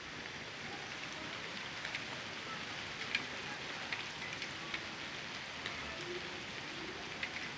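Steady rain falling, with scattered sharp drip ticks.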